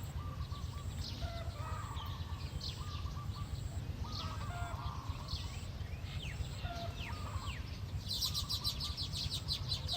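Several small birds chirping and calling in short repeated phrases, over a steady low rumble. About eight seconds in, a fast, dense high chattering starts.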